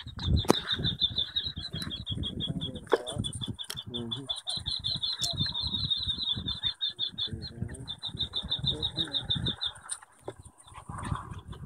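A quail call played back from a recording to lure the mother quail: a rapid, high-pitched pulsed trill that repeats in long runs with short breaks, over low rustling noise.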